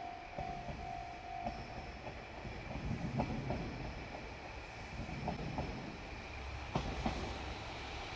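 Level crossing warning bell ringing in a fast repeating ding that stops about a second and a half in, then a JR Shikoku Series 1200 diesel railcar rolling slowly past with a low rumble and pairs of clacks as its wheels cross rail joints.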